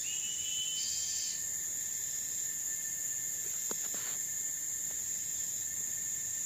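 Tropical forest insect chorus: several steady high-pitched drones running without a break. A thin whistle-like call rises slightly in the first second, and a few short clicks come a little past halfway.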